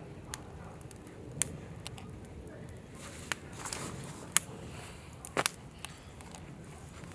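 Wood campfire crackling, with irregular sharp pops and a short hiss about three seconds in.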